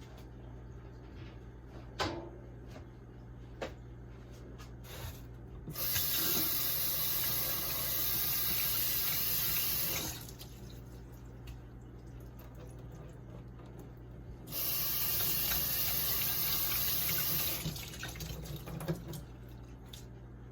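Water tap running into a sink in two spells, about four seconds and then about three, with a few light knocks and clatters around them.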